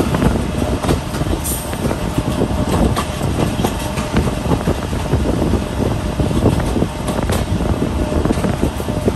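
Passenger train running at speed, heard from aboard: a steady rumble of wheels on the rails with continual rattling clicks.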